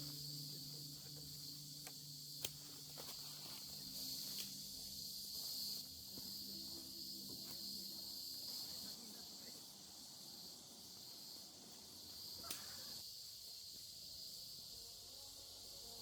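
Steady, high-pitched chorus of forest insects such as crickets, with a couple of sharp clicks, one about two and a half seconds in and another near the thirteen-second mark.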